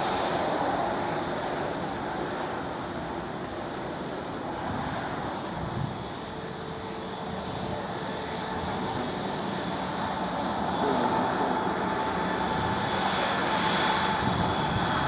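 Airliner jet engines: a steady rushing noise with a thin whine, dipping about a third of the way in and growing louder again toward the end.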